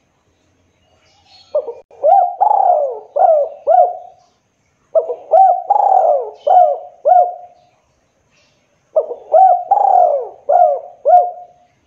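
Spotted dove (tekukur) cooing: three repeated phrases of about five bending, throaty coos each, with short pauses between them.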